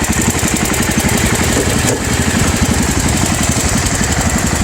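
Small garden tractor engine idling steadily with a fast, even firing beat.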